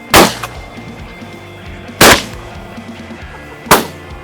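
Three shotgun shots at waterfowl, the first near the start, the next about two seconds later and the last under two seconds after that, each a sharp, loud crack with a short echo.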